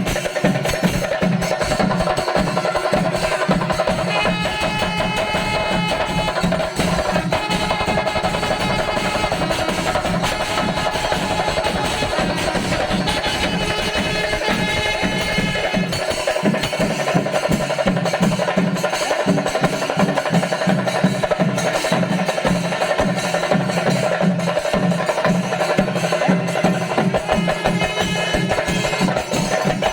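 Kerala temple percussion ensemble playing: dense, fast drumming with rapid rolls runs on without a break, and stretches of high held wind notes come in and out over it.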